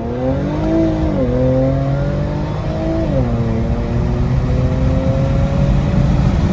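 Infiniti Q60's turbocharged engine accelerating hard through a muffler- and resonator-deleted exhaust. The pitch climbs and drops at two upshifts, about one and three seconds in, then climbs slowly.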